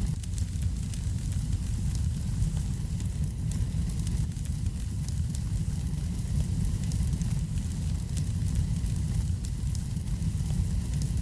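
Wood fire crackling in a fireplace: a steady low rumble of the flames with frequent small, sharp pops and crackles throughout.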